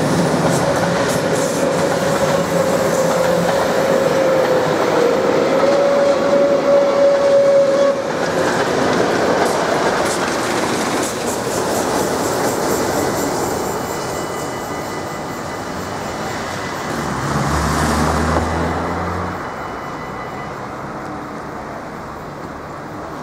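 Passenger coaches behind a steam locomotive rolling over a level crossing, their wheels clattering over the rail joints, with a steady high tone for the first eight seconds. The sound fades after the last coach passes, about ten seconds in, and a low engine hum rises briefly about seventeen seconds in.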